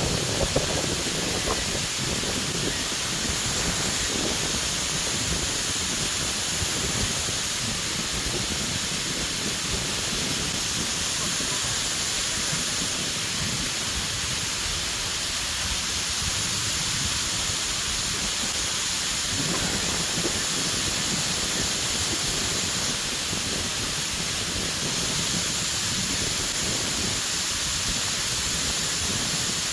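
Waterfall: a steady rush of falling water with no break.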